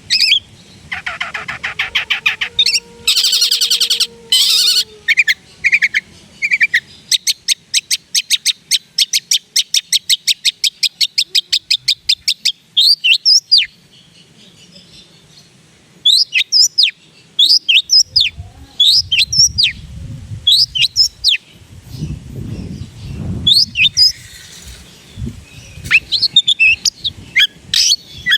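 Long-tailed shrike (cendet) singing a varied, mimicry-filled song. It opens with a harsh buzzy chatter, then gives a fast run of evenly repeated clicking notes, then many sharp, downslurred whistled notes.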